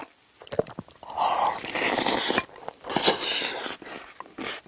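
Close-miked eating noises: two long breathy hisses of air through the mouth, about a second and a half and then about a second long, with wet chewing clicks around them.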